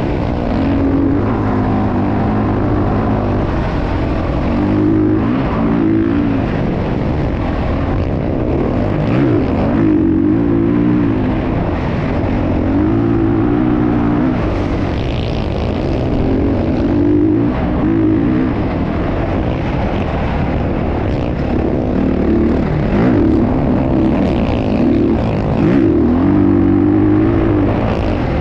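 Motocross dirt bike engines revving, rising and falling in repeated surges every couple of seconds as the throttle is worked.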